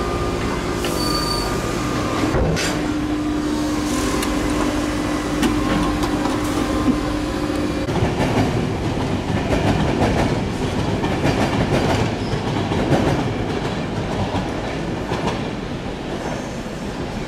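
RER B electric commuter train running, with steady tones from its traction equipment over the running noise. About eight seconds in this gives way to a rougher rumble of wheels clattering over rail joints and points.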